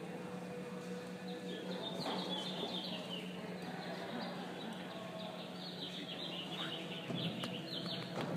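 Small birds chirping in two bouts of quick, high, falling chirps, over a steady low hum.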